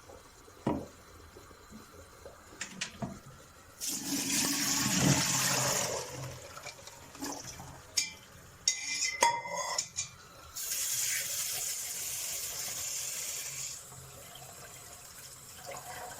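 Cooking water poured off boiled okra through a colander into a sink, in two pours. Between the pours come clanks and ringing knocks of a metal pot and colander.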